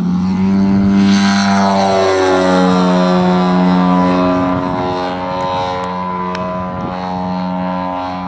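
Giant-scale RC airplane's engine and propeller running at high throttle with a steady buzzing tone whose pitch drops slightly about two seconds in.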